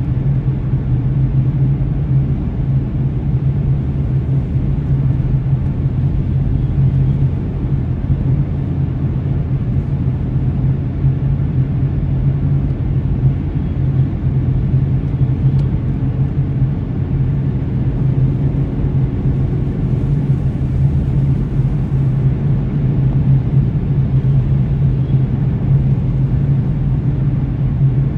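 Car driving at steady speed: a continuous low drone of engine and tyre noise.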